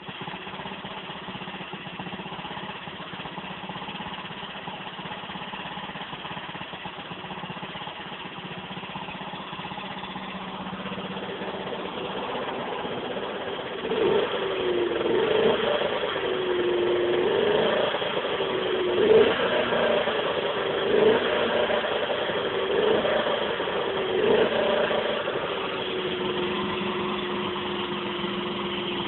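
Honda CZ100's single-cylinder 50cc OHV engine running on its first firing after eight years standing. It idles steadily, is blipped about six times in quick rises and falls of pitch from about halfway through, then settles back to a steady idle.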